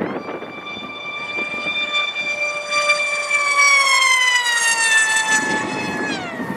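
Whine of a radio-controlled Stryker flying wing's electric motor and propeller, running a Castle brushless motor on a 6-cell pack, on a fast pass. The pitch holds steady, then falls gradually and drops sharply near the end as the plane goes by and away.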